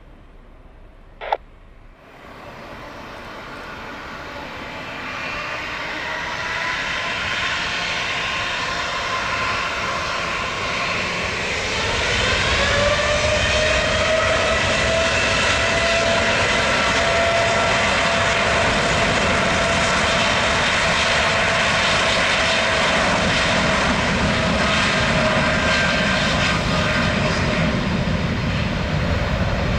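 Boeing 787-8 Dreamliner's twin jet engines spooling up to takeoff thrust at the start of the takeoff roll. The engines get louder for about ten seconds, with whining tones climbing in pitch, then run at a steady high level with a held whine. A brief click comes about a second in.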